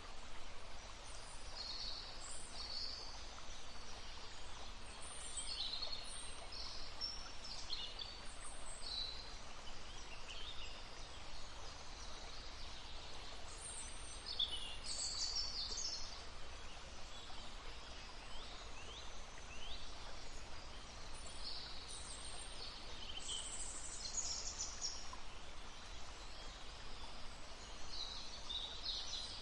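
Songbirds singing and chirping in short, scattered phrases, with the steady murmur of a babbling stream underneath.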